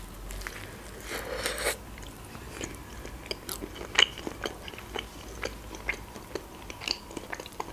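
Close-up chewing of a mouthful of pizza: soft crunching with many small wet clicks and smacks of the mouth.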